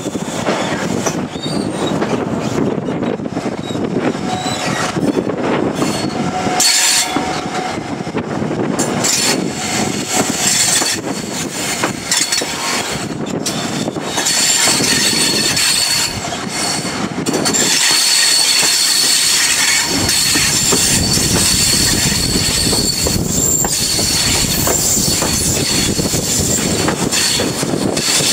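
InterCity 125 High Speed Train set with Mark 3 carriages running along the line, with continuous train noise and a steady high-pitched squeal setting in about halfway through.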